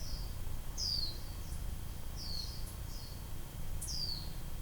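A small bird calling over and over with short, high, falling chirps, each followed by a fainter one, about one every second and a half. A steady low rumble lies underneath.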